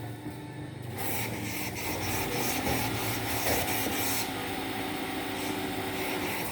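Steam iron fed by a steam boiler hissing out steam. The hiss starts about a second in, is strongest for about three seconds, then carries on softer until it stops near the end, over a low steady hum.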